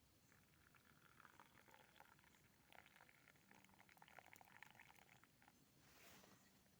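Near silence, with faint crackling made of many small clicks.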